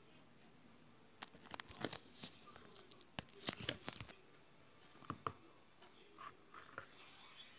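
Hands playing with slime: a series of sticky pops, clicks and small tearing sounds. They come thickest in the first half and are loudest about three and a half seconds in, with a few scattered pops later.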